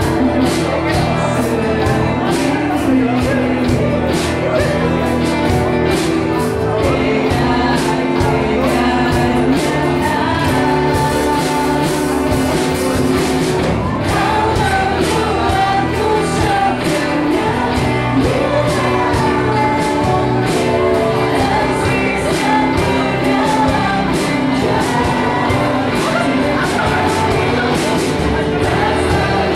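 Live indie band performance: a woman singing over drums keeping a steady beat, electric guitars, bass and keyboard, heard as raw live sound.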